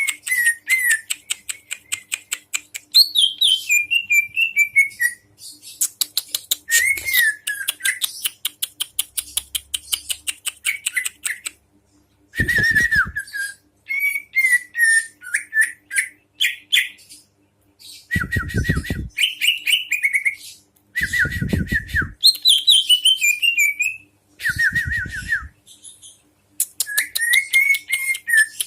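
A songbird singing in repeated bursts of rapid chattering, clicking notes and short falling whistled phrases, each burst a second or a few seconds long with brief pauses between, used as song-training material.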